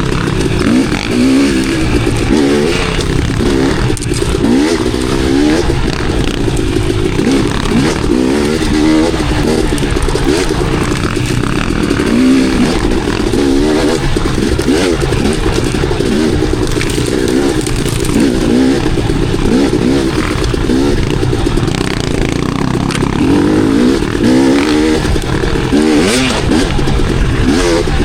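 Enduro dirt bike engine being ridden hard, its pitch rising and falling constantly with the throttle, with scattered short knocks.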